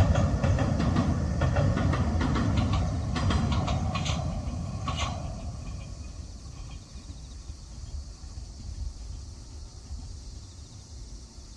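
Echizen Railway electric train crossing a steel truss bridge: a low rumble with a run of sharp wheel clacks. The sound fades away over the last half as the train moves off.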